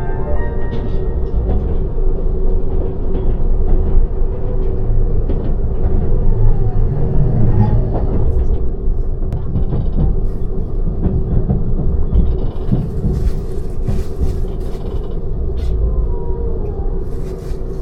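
Seibu 001 series Laview limited express train running on the rails: a steady low rumble with a constant hum and scattered faint clicks, with stretches of hiss about twelve seconds in and again near the end.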